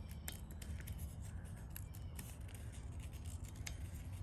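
Marking the inside of a hole onto steel tubing: a run of short scratchy strokes and light clicks of the marker and metal parts being handled, over a steady low hum.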